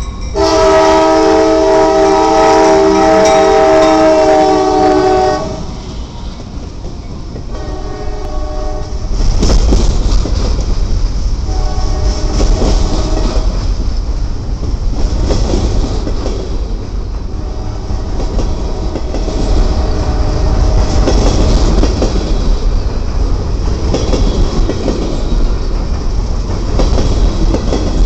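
Freight locomotive's air horn sounding a loud, long blast, then shorter blasts as the train approaches. From about nine seconds in, the locomotive and its freight cars pass close by: a heavy low rumble with the rhythmic clickety-clack of the wheels over the rail joints.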